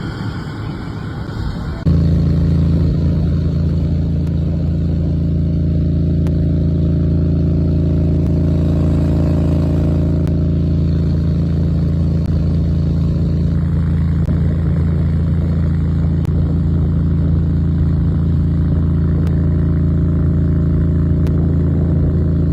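Loud, steady low rumble that starts suddenly about two seconds in and holds unchanged, with a quieter rushing noise before it.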